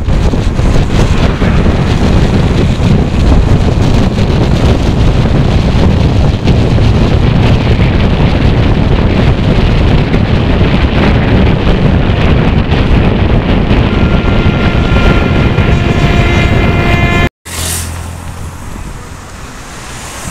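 Loud, steady rushing noise of a moving vehicle with wind on the microphone. It cuts off abruptly near the end and gives way to a quieter low hum.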